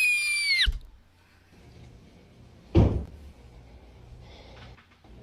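A single loud bang about three seconds in, like a heavy knock on a door, over faint room hum. It is preceded by a high whistle-like tone that slides down and cuts off in the first second.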